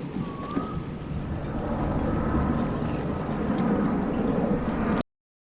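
Small boat's motor running with wind and water noise, as a steady low rumble; the sound cuts off abruptly to silence about five seconds in.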